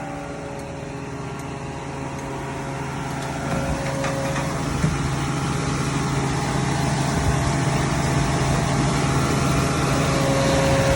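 Jetter/vacuum truck engine running steadily, growing gradually louder.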